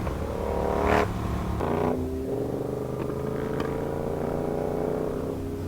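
Sportbike engine pulling hard and rising in pitch, upshifting at about one and two seconds in, then cruising at a steady engine speed, with wind rush.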